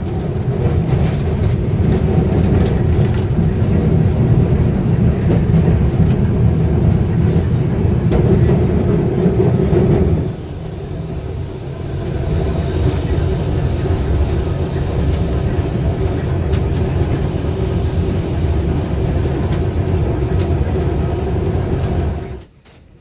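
Heritage electric tram running on the track: a steady low rumble of wheels and motors with scattered clicks, easing off about ten seconds in and cutting off suddenly near the end.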